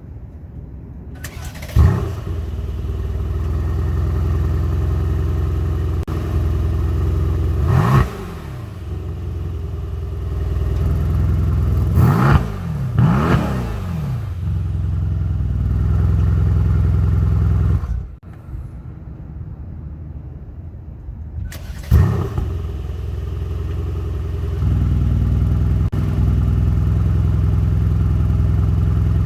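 A 2017 Mercedes-AMG C63 S V8 with a double dual exhaust cold-starts about two seconds in, with a loud flare of revs, then settles into a high cold idle. It is blipped once about eight seconds in and twice around twelve to thirteen seconds. It shuts off, restarts with another flare, and its idle steps up louder near the end.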